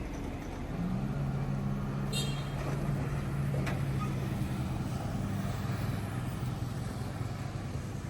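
A heavy road vehicle's engine running, a steady low hum that comes in about a second in and eases off after about six seconds. A brief high squeal sounds a little after two seconds, and a sharp click comes around three and a half seconds.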